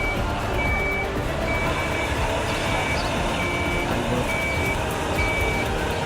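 A heavy vehicle's reversing alarm beeping steadily, about once a second, a single high tone over a continuous low rumble of engine noise.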